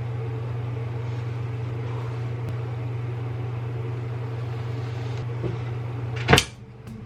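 A steady, even mechanical hum, stopped by a loud sharp click about six seconds in.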